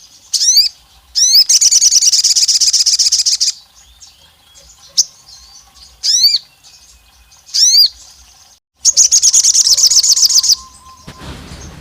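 Sogon bird singing: sharp high whistled notes that sweep up and down, in pairs, each burst of song running on into a long rapid trill. This happens twice.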